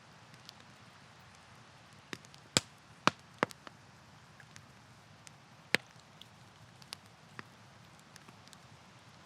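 Wood campfire crackling: a low steady hiss with a scatter of sharp pops, three of them much louder than the rest.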